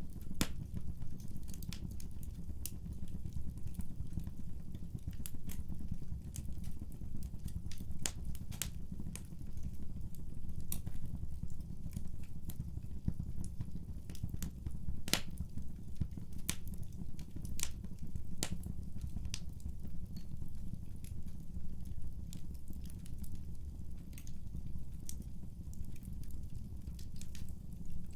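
Wood fire burning in a fireplace: a steady low rumble of the flames with irregular sharp pops and crackles of the burning wood scattered throughout.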